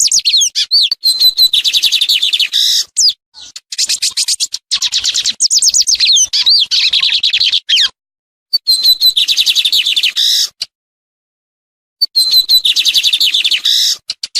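Lined seedeater (bigodinho) singing: four phrases of fast, rough, high-pitched repeated notes, each a few seconds long, with short silent breaks between them.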